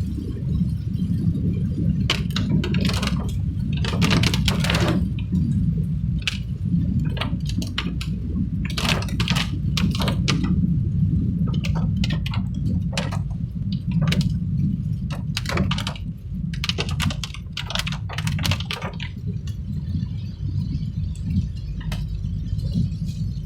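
Vehicle driving over a rough road: a steady low rumble of engine and tyres, with frequent sharp rattles and knocks in clusters over the bumps.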